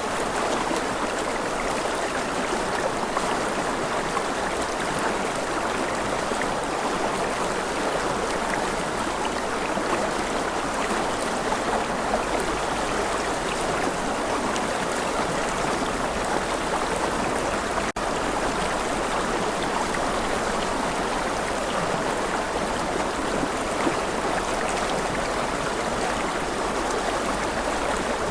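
Steady running water, like a stream flowing over rocks, with a momentary dropout about two-thirds of the way through.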